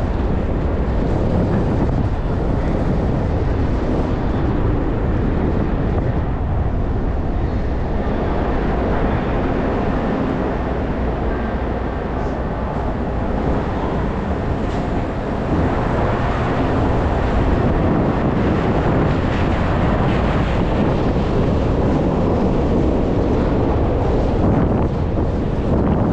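Steady wind noise buffeting the microphone of a moving rider, with road noise beneath it.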